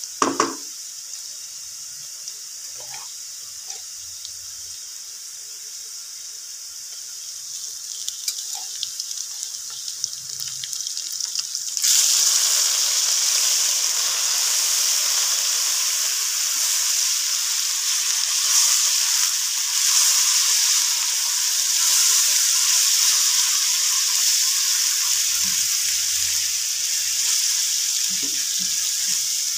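Sliced onions frying in oil in a non-stick kadai, sizzling as a spatula stirs them. About twelve seconds in the sizzle suddenly becomes much louder and stays loud. A brief pitched sound comes right at the start.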